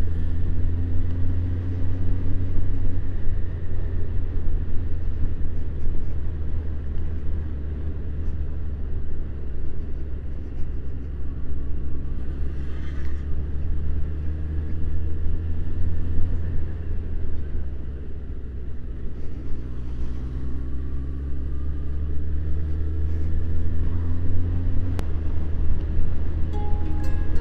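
Suzuki Bandit motorcycle engine running on the move, a steady low rumble whose pitch climbs slowly and drops back several times as the bike speeds up and eases off.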